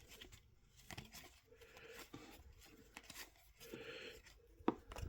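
Faint crinkling and tearing of a foil trading-card pack wrapper being opened, in a few short spells, with a couple of light clicks near the end.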